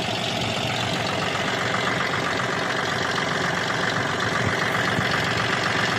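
Diesel tractor engine running steadily at an even, low speed.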